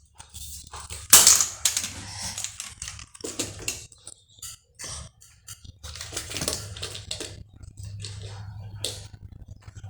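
Plastic toy vehicles handled and knocked together: irregular clicking and clattering, loudest about a second in, over a steady low hum.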